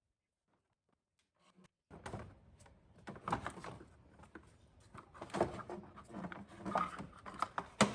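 Silence for about two seconds, then irregular clicks, knocks and a few louder clunks of hand tools and metal parts being handled while working on the engine.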